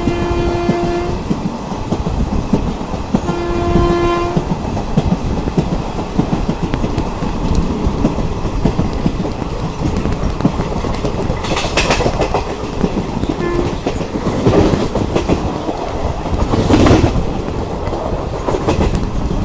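A train horn sounds twice, a steady single-pitched blast at the start and a second about three and a half seconds in, then the rumble and clickety-clack of a train running on the rails, with a few brief louder rushes of noise.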